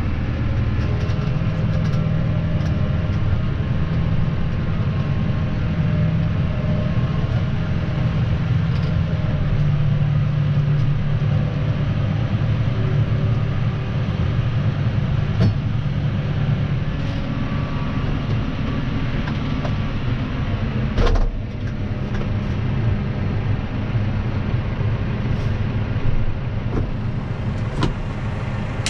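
Claas Arion 530 tractor engine running steadily under load, with scattered light ticks and one sharp knock about three-quarters of the way through.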